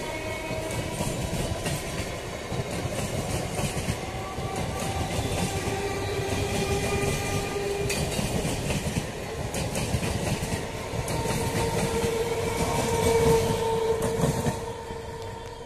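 EMU electric local train passing close by, its wheels clattering over the rail joints above a steady rumble. The sound drops away sharply near the end.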